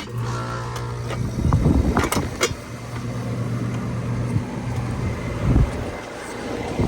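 Rheem central air conditioner condensing unit starting up as its disconnect is plugged in: a click, then a steady low hum from the compressor with the condenser fan running, and a few knocks from handling.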